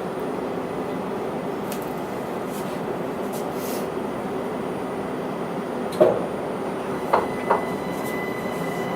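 Interior of a Linimo maglev car: a steady mechanical hum, then a thump and two shorter knocks about six to seven and a half seconds in. Near the end a steady high whine starts up, the sound of the car's drive powering up.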